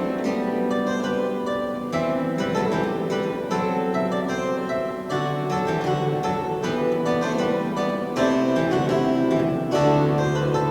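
Historic church pipe organ playing a classical piece, with quick melodic notes over sustained bass notes that change about five seconds in and again near the end.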